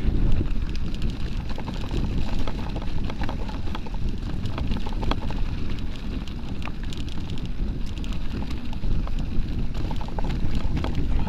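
Strong gusty wind buffeting the microphone as a low, steady rumble, with many small ticks and rattles from the mountain bike running over a dry, rocky trail.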